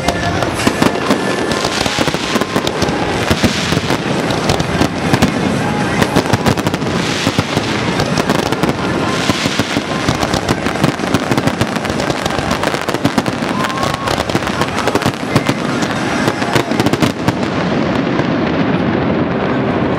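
A dense barrage of aerial fireworks shells: rapid, overlapping bangs and crackling that run without a break, with the high crackle fading near the end as the display's finale closes.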